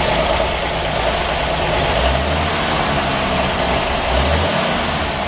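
1946 Chevrolet truck's 235 cubic-inch inline-six engine running at a fairly high idle through a blown-out glasspack muffler, with two brief low swells in the rumble about two and four seconds in.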